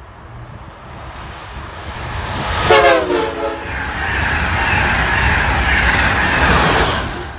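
High-speed electric passenger train, an Amtrak Acela trainset, passing close at speed: a rumble that builds as it approaches, then a short horn blast about three seconds in whose pitch drops as the train goes by, then the loud rush of the cars passing.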